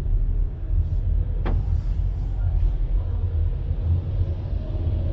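Steady low rumble of vehicle noise, with a single sharp click about one and a half seconds in.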